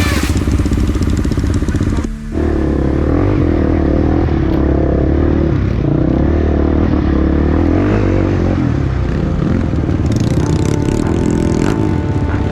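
Trail motorcycle engine running and revving unevenly, its pitch wavering up and down. A hissing, clattering noise joins about ten seconds in.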